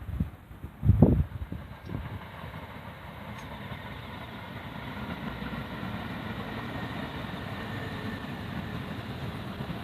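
A train running by on the rail line, a steady rumble that slowly builds and holds, with a faint high whine. Before it, about a second in, a gust of wind buffets the microphone.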